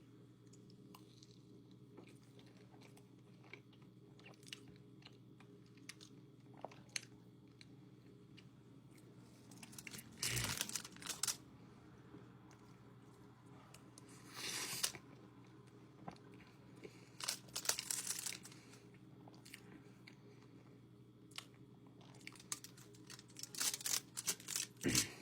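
Close-up eating sounds: biting and chewing pastries, with bursts of mouth noise about 10, 14, 17 and 23–25 seconds in and faint clicks between, over a low steady hum.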